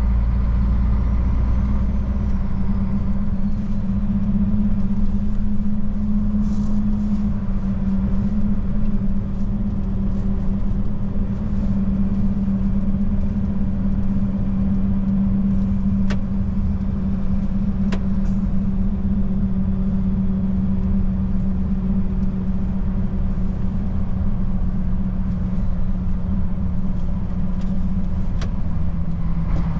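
Old Mercedes-Benz truck's diesel engine running steadily while driving: a constant low drone with road rumble. Two sharp clicks come a couple of seconds apart past the middle.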